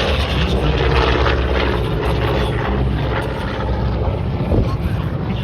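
Twin radial piston engines of a B-25 Mitchell bomber running at power on a flyby, a deep propeller drone that gradually fades as it passes.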